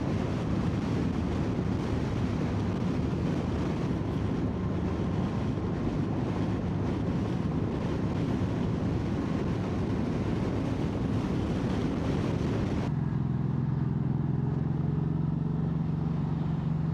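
Motorcycle engine running at road speed under heavy wind rush on the microphone. About thirteen seconds in, the wind noise drops away suddenly, leaving a steadier engine hum.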